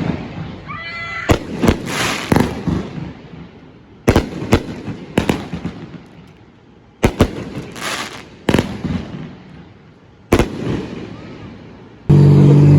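Consumer fireworks going off: a string of sharp bangs with fading crackly tails, coming in clusters every second or two, with a short rising whistle about a second in. Near the end a loud, steady droning sound cuts in abruptly.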